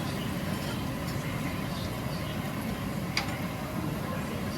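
Steady background hubbub of a busy outdoor street market, with a short click a little after three seconds.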